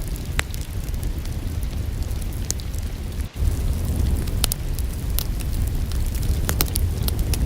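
Wood fire burning in a fireplace: a steady low rumble with irregular sharp crackles and pops. The sound drops out for an instant a little under halfway through, then resumes.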